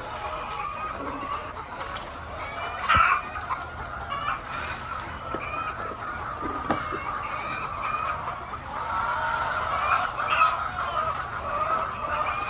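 A flock of chickens clucking and calling together in a continuous chatter, with a few louder calls standing out, one about three seconds in.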